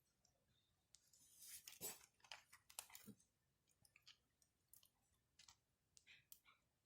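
Faint crackling of a wood campfire: scattered sharp pops and snaps, with a denser run of crackling about a second in that lasts roughly two seconds.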